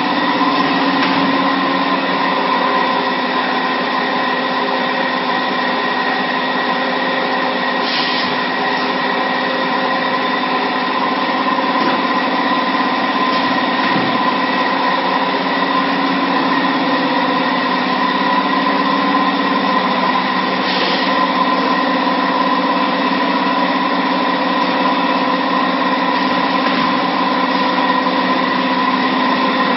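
High-frequency PVC blister welding machine running with a steady electrical hum, with a short hiss about eight seconds in and again about twenty-one seconds in.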